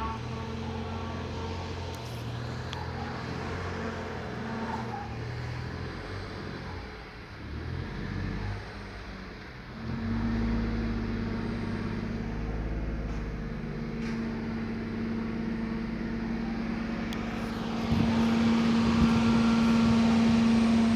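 2015 Ford Ka running while being put in reverse, with a steady whine that comes in about halfway through and gets louder near the end: the noise the car makes when reversing.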